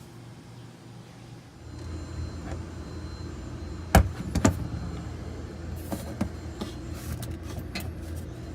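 A motor starts up about two seconds in and runs with a steady low drone. A loud knock comes near the middle, followed by a few lighter clicks and knocks.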